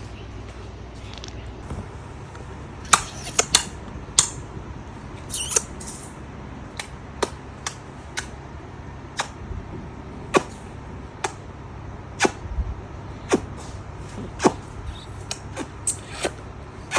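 A baby making repeated sharp clicking sounds with its mouth, irregularly about once a second.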